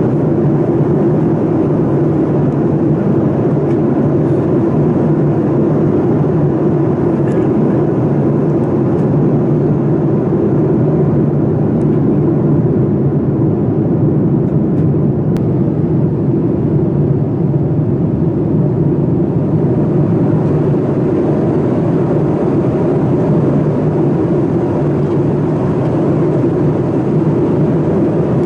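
Steady cabin noise inside a Boeing 787-9 airliner in flight, the even rumble of its GE engines and the airflow past the fuselage, with a faint steady whine.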